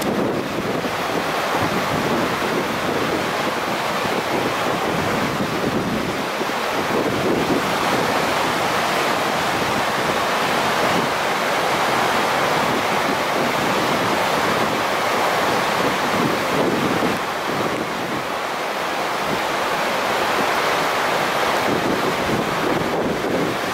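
Floodwater of a typhoon-swollen river rushing past, a steady noise with no break, mixed with wind buffeting the microphone.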